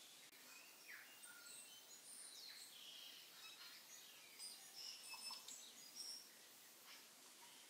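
Faint small birds chirping, with many short high chirps and quick glides over a quiet background hiss; the chirps are busiest near the middle.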